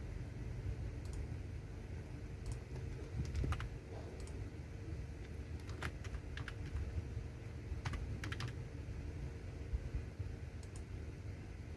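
Computer keyboard being typed on at a slow, uneven pace: single key clicks and occasional quick pairs a second or so apart, over a steady low hum.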